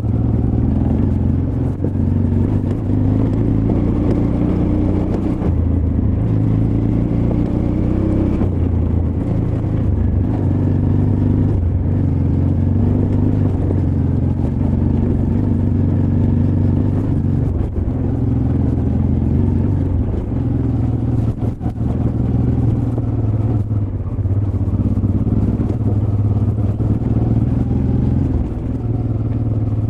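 Honda Transalp XL600V's V-twin engine running on a rocky off-road trail, its revs rising and falling repeatedly with throttle changes, with a few brief knocks from the bike over the rocks.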